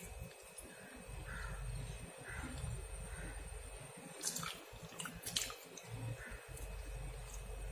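A man biting and chewing crisp shallow-fried taro root (seppankizhangu), with a few sharp crunches between about four and five and a half seconds in. Faint repeated calls sound in the background.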